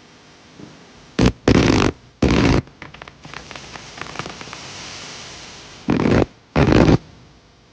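Fireworks going off: about five short, loud spluttering blasts, in two groups a few seconds apart, with a stretch of fainter crackling between them.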